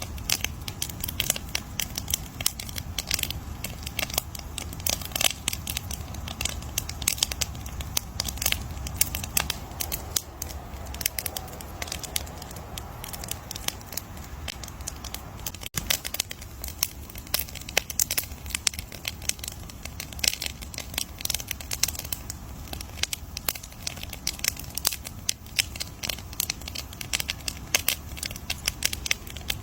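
Campfire crackling: dense, irregular snaps and pops over a low, steady rumble of burning wood, with an instant's dropout about halfway through.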